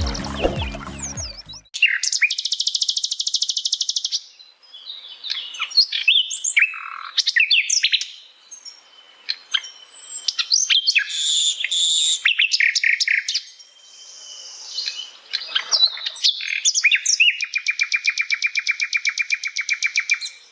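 Intro music ending in the first two seconds, then a sikatan londo flycatcher singing: long, fast trills of rapidly repeated high notes at the start and near the end, with varied chirps, whistles and short phrases in between.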